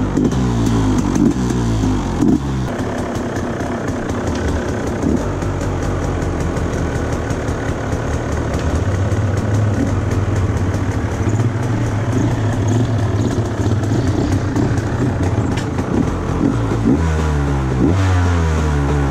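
KTM EXC enduro motorcycle engine running: revved up and down in quick blips for the first couple of seconds, then running steadily before it is blipped again near the end.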